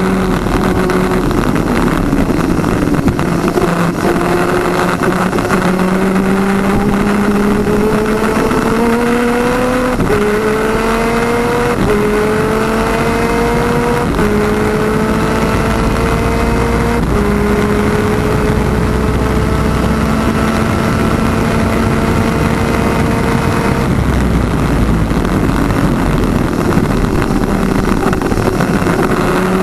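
Twin-cylinder 250cc two-stroke superkart engine pulling hard through the gears: its note climbs and drops back at each of four upshifts, then holds steady. About two thirds of the way through the engine note falls away as the driver lifts off, leaving a rushing noise, and near the end it picks up again, rising.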